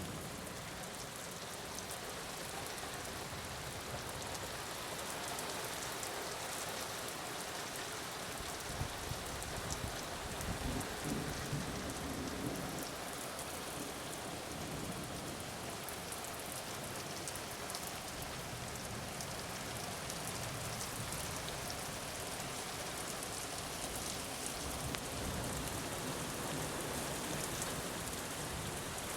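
Steady heavy rain falling on surfaces, a dense even patter of drops. A low rumble of thunder swells underneath for a few seconds, from about nine to thirteen seconds in.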